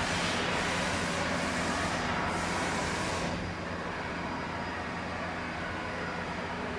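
Kuraki KBT 13 CNC horizontal boring machine running with a steady hum, overlaid by a hiss that cuts off about three and a half seconds in.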